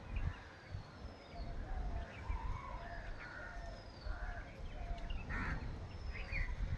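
Birds calling around a rural pond: short repeated calls and high, quickly falling chirps, scattered through the whole stretch, over a low rumbling noise.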